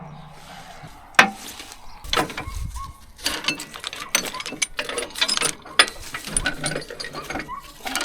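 Irregular metal clicks and clanks, some in quick ratchet-like runs, from hands and tools working on an old Allis-Chalmers HD5 bulldozer.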